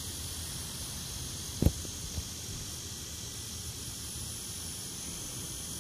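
Steady evening insect chorus with a hiss and a low rumble underneath. A sharp knock comes about one and a half seconds in, with a smaller one half a second later.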